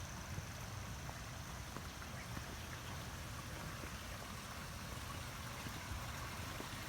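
Running water trickling and gurgling steadily.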